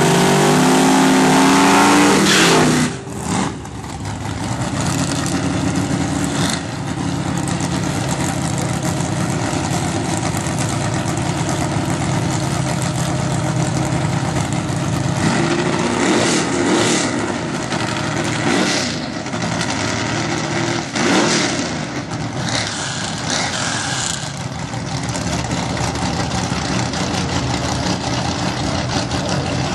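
A 383 small-block Chevy V8 in a Monte Carlo SS doing a burnout, revving high and loud for about three seconds, then dropping abruptly to a steady idle. A few short revs come around the middle as the car rolls up to the line.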